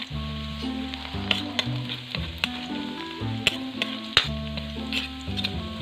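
Chopped garlic sizzling in hot oil in a pan as it browns, with a spatula clicking against the pan several times as it is stirred.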